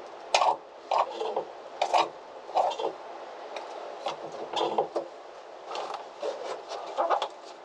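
Repeated scraping and rubbing strokes of a hand tool across a hard surface, about a dozen short strokes at an uneven pace.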